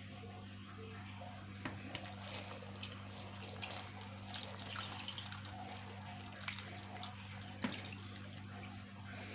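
Meat broth and water being poured into a pot over rolled stuffed grape leaves: a faint, steady trickle with a few small clicks, over a low steady hum.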